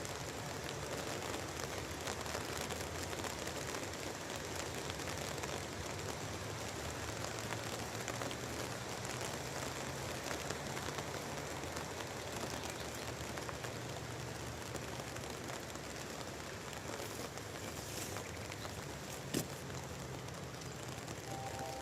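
Steady rain falling, an even patter of drops, with one sharp click about nineteen seconds in.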